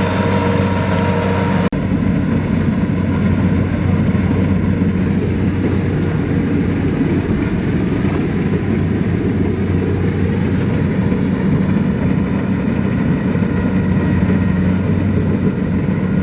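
Tractor diesel engine running steadily under a constant low hum, with an abrupt cut a little under two seconds in after which it carries on.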